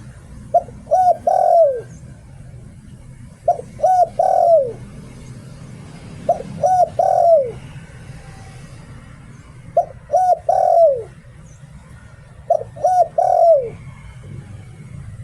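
Spotted dove cooing in the "liu tan" phrase: five repeats of a three-note coo, about every three seconds. Each phrase is two short coos and a longer note that falls away at the end.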